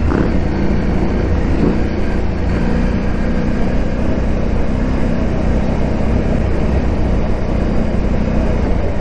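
KTM 890 Adventure R's parallel-twin engine running steadily while the bike is ridden off-road, with only slight changes in pitch.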